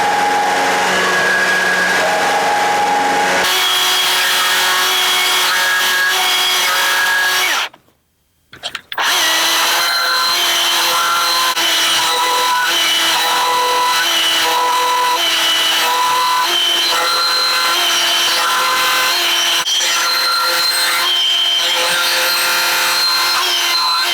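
Handheld power carving tool cutting feather detail into wood, its motor pitch stepping up and down as the cut bites and eases. It stops for about a second near the middle and then starts again.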